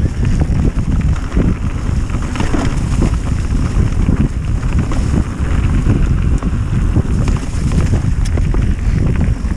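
Heavy wind buffeting on a moving camera's microphone during a fast downhill trail descent, a steady low rumble scattered with short knocks and rattles from the ride over rough ground.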